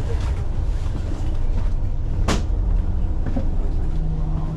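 Commuter train running, heard inside the carriage as a steady low rumble, with a faint steady hum in the second half. A single sharp click a little over two seconds in.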